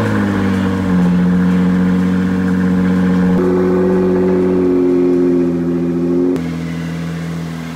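Nissan GT-R's twin-turbo V6 running at steady raised revs. The pitch steps up about three and a half seconds in and drops back down about six and a half seconds in.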